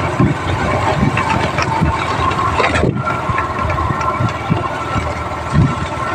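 Motorcycle engine running steadily during a ride, with many short low thumps under it.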